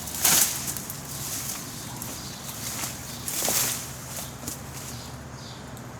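Rustling of overgrown brush being pushed down and stepped through, with two louder rustles, one just after the start and one about three and a half seconds in.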